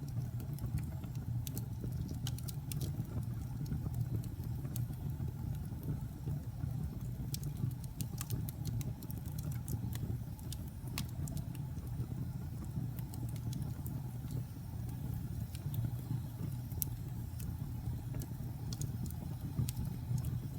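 Campfire burning, with a steady low rumble and wood crackling in scattered sharp pops.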